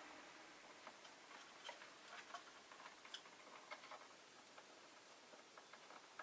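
Faint, irregular small clicks and ticks from peach-faced lovebirds moving about their cage, with a few brief soft high chirps.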